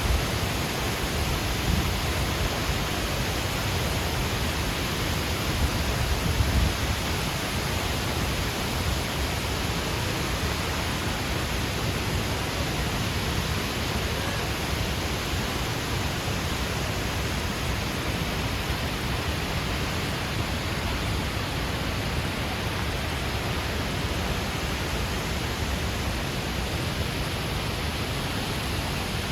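Tall artificial waterfall pouring down a rock face: a steady rushing of falling water, with some low rumbling in the first several seconds.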